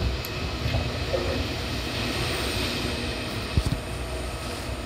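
Seibu old 2000 series electric train running, heard from inside the car: a steady rumble from the wheels and running gear, with a short knock about three and a half seconds in.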